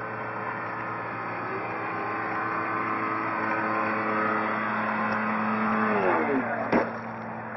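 Electric motor and propeller of a large radio-controlled foam bird plane running steadily and growing slightly louder, then winding down in pitch at about six seconds as the throttle comes off. A sharp knock follows about a second later.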